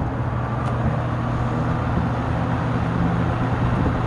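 Frigid SP20 five-blade box fan with a Westinghouse motor running steadily: a constant low motor hum over the rush of moving air.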